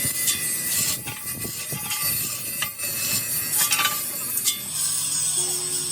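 Metal scraping and rubbing with scattered knocks and clinks, typical of hand work on engine parts in a machine shop.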